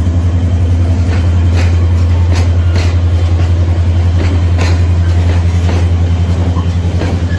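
Freight trains passing: a loud steady low diesel locomotive throb, with wagon wheels clicking in pairs over rail joints as the freight cars roll by close.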